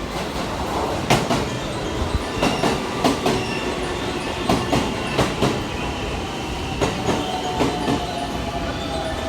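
Electric commuter train running on the rails: its wheels clack irregularly over joints and points, about ten sharp clicks, over a steady rumble with a thin squeal from the wheels.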